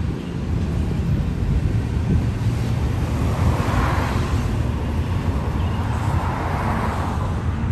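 Double-stack container freight train rolling past: a steady low rumble of wheels on rail. Road cars passing add a swelling hiss about halfway through and again near the end.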